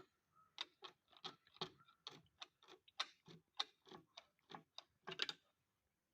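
Faint, quick clicking or tapping, about three to four clicks a second and unevenly spaced.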